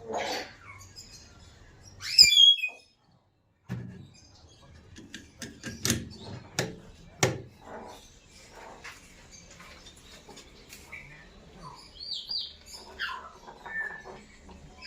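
Parrot calling and chirping, the loudest a call falling in pitch about two seconds in, with short chirps and whistles near the end. A few sharp knocks sound in the middle.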